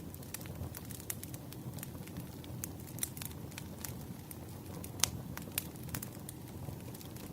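Wood fire burning, crackling with irregular sharp pops over a low steady rumble of flame; the loudest pop comes about five seconds in.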